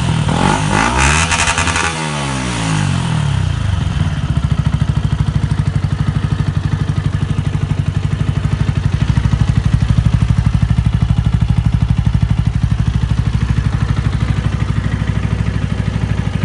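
Carburetted Yamaha YZF-R125 single-cylinder engine through a LeoVince aftermarket exhaust. It is blipped a few times in the first seconds, the revs falling away, then it settles to a steady idle with a fast, even pulse.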